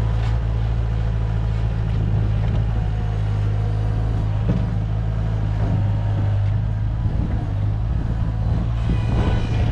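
Bobcat skid-steer loader's engine running steadily, with a few brief knocks and clatters around the middle and near the end as it works the dirt.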